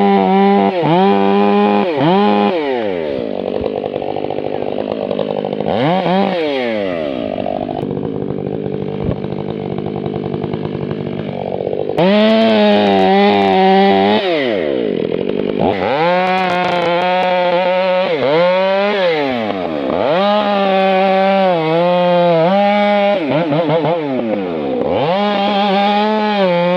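Two-stroke chainsaws running at high revs, the engine speed dropping and climbing back again and again as the throttle is worked and the chain bites into wood. In the middle stretch the revs sit lower and a second saw at a different pitch can be heard.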